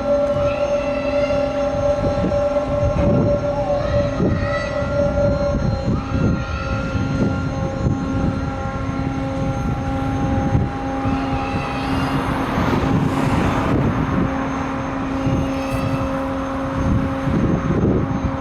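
Steady drone of the car ferry Sunflower Gold's engines and machinery as she leaves port: a low rumble under several steady hum tones. Short high chirps come through on top, and a rushing hiss swells briefly past the middle.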